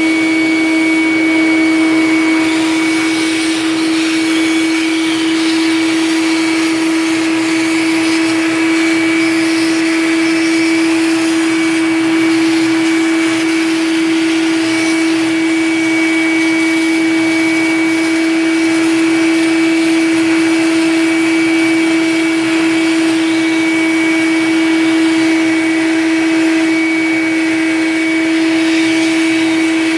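Shop vac running, sucking standing water out of a refrigerator's drip pan. The motor gives a steady whine over a rush of air.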